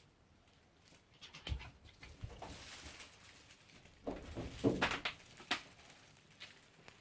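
Kitten making an odd, weird noise: a few scattered short sounds, then a louder cluster of quick rough sounds about four seconds in.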